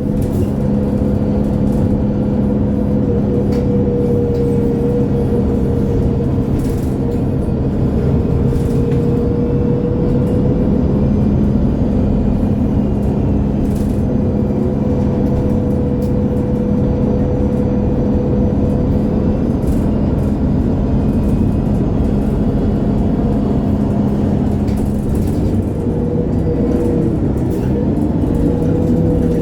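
2011 MAN Lion's City G (A23) articulated city bus heard from inside while driving: its diesel engine and drivetrain run with a steady drone and a higher whine. The pitch shifts in the last few seconds as the bus changes speed.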